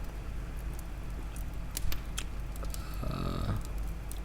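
Pause in a spoken monologue: a steady low hum with scattered small clicks, and a short pitched vocal sound, like a brief hummed 'mm', about three seconds in.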